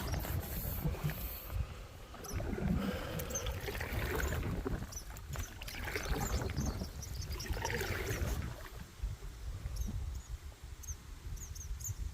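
Canoe paddles working river water, with splashy strokes a few seconds apart, over a steady low wind rumble on the microphone. Faint high chirps sound now and then.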